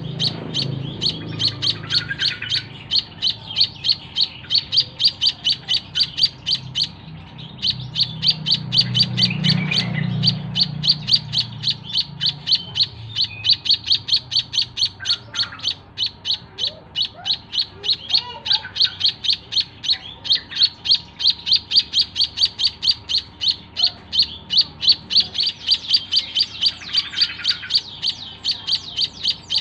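A white-headed munia (emprit kaji) chirping in a fast, steady series of short high notes, about four a second, with one brief break.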